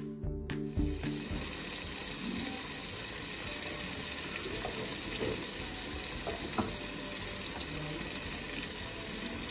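Onion-tomato masala sizzling steadily in oil in a pan, a continuous frying hiss with a few faint pops.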